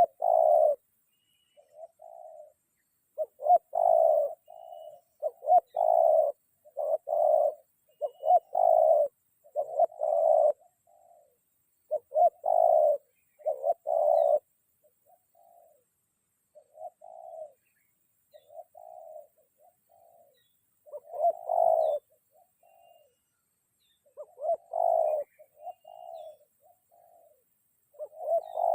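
Spotted dove (tekukur) cooing over and over in short low phrases, some loud and close, others fainter.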